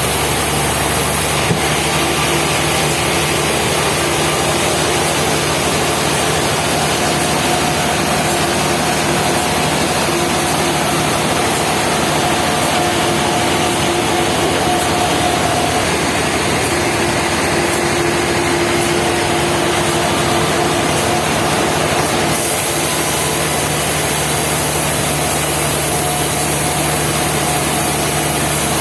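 Sawmill running steadily, its engine-driven saw cutting through wood, with a faint whine in the middle; the sound changes about three-quarters of the way through.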